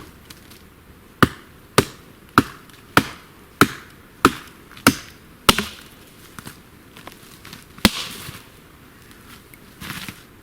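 Fiskars X7 hatchet chopping into wood: eight sharp strokes in a steady rhythm, a little under two a second, then one more stroke a couple of seconds later.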